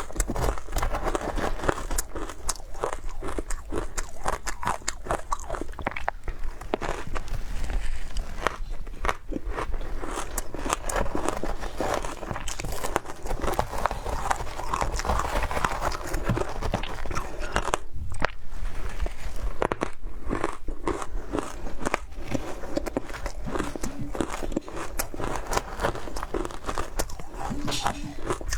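A person biting and chewing frozen matcha ice close to the microphone: a dense, continuous run of crisp crunches.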